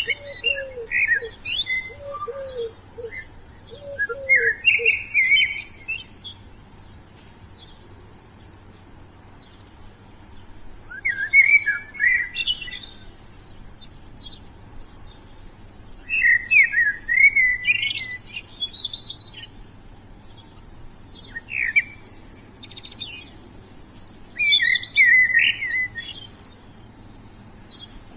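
Wild songbirds singing in bouts of quick, varied chirps and trills every few seconds, with quieter gaps between. A lower, evenly repeated call sounds beneath them for the first five seconds or so.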